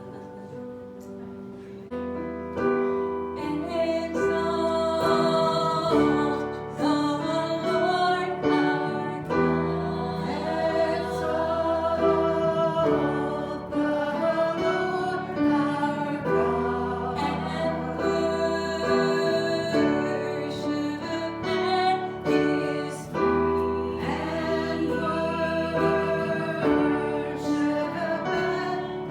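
Worship music: voices singing a slow hymn-like song over piano or keyboard accompaniment with sustained bass notes. It starts softly and fills out about two seconds in.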